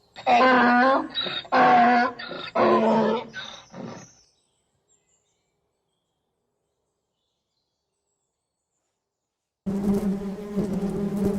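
Three loud animal calls, each about a second long, the third trailing off. Near the end a steady insect buzzing starts.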